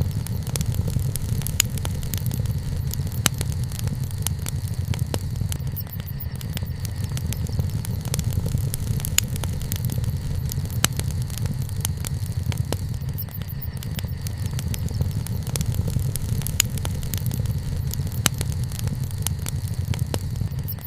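Wood campfire burning: a steady low rush with many scattered, irregular sharp crackles and pops.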